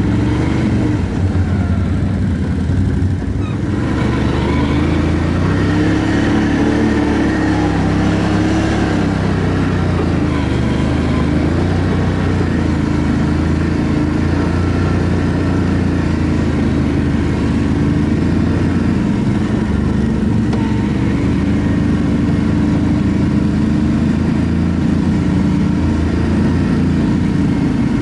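ATV engine running while riding a dirt trail, its pitch rising and falling slowly with the throttle.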